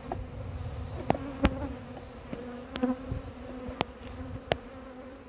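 Honeybees buzzing close around an open hive, a steady humming drone that wavers as bees fly past, with a few sharp clicks in between.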